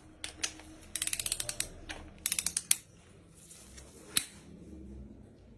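Ratchet wrench clicking in two quick runs, then once more, as a cylinder head bolt is turned through its final 90-degree angle-tightening stage.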